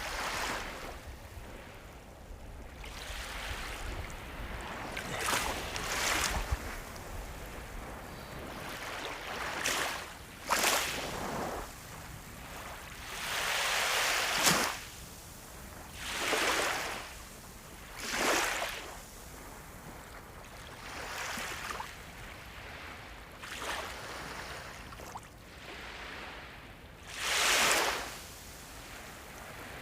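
Sea waves breaking and washing in, a series of hissing surges of surf coming every two seconds or so over a steady wash, the strongest about halfway through and near the end.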